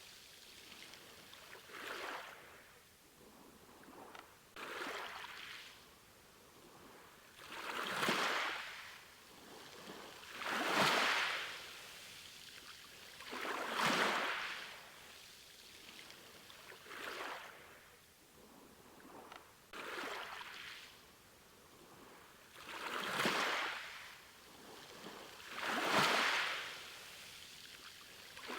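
Sea waves washing in one after another, each a hissing surge that swells and falls away, about every three seconds, some waves stronger than others.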